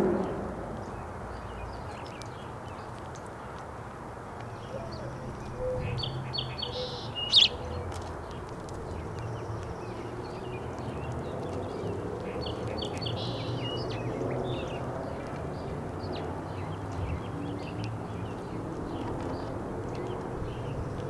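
Small birds chirping in short, scattered calls over a steady outdoor background hum, with the loudest single sharp chirp about seven seconds in.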